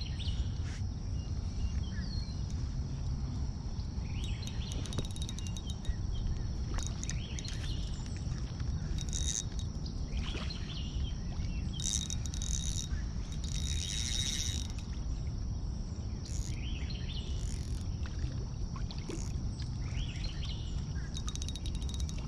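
Steady low rumble of wind on the microphone with birds chirping now and then, and a few short hissy bursts.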